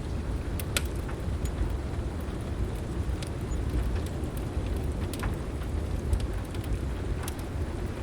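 Heavy rain with a steady low storm rumble, and scattered sharp crackles and pops from a wood fire in a fireplace.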